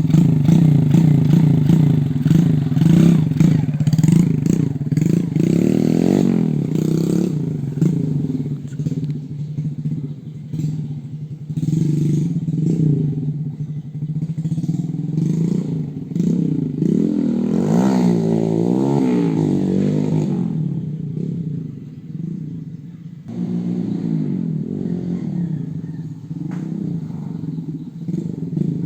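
Yamaha Jupiter motorcycle's single-cylinder four-stroke engine running, its pitch rising and falling as the throttle is opened and closed, with a long rev up and back down around two-thirds of the way in. It settles lower and quieter for a moment before picking up again.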